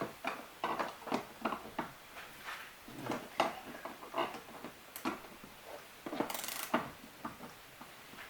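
Ratchet wrench clicking in short, uneven runs as nuts on the kayak seat-mount bolts are tightened, with metal tool and hardware clatter and a longer scrape about six seconds in.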